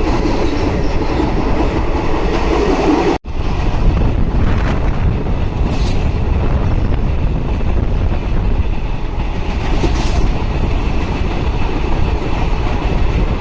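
Passenger train running along the track: a steady rumble of the wheels and carriages, with a few clicks over the rail joints. The sound cuts out briefly about three seconds in.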